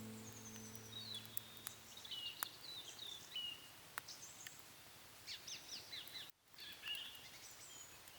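Small woodland birds chirping and singing in short, scattered phrases, some notes sliding downward. The last held chord of a guitar music track fades out in the first second or so, and the sound cuts out completely for a moment just past six seconds.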